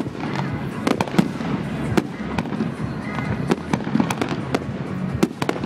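Fireworks display going off: a dense run of sharp bangs and cracks at irregular intervals, about two a second.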